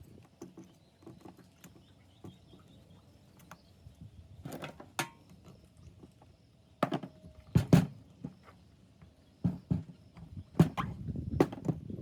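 Irregular knocks, taps and clatter of parts and tools being handled. The louder knocks bunch up about halfway through and again near the end.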